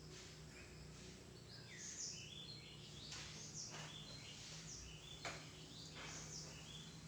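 Faint bird calls: short, high chirps repeated in quick stepped runs, over a low steady hum.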